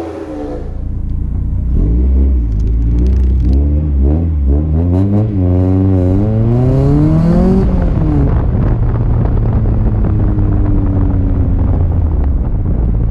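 Car engine and exhaust revving up and down a few times, then pulling hard with the pitch climbing steadily for a couple of seconds. It then backs off and settles into a steady lower drone.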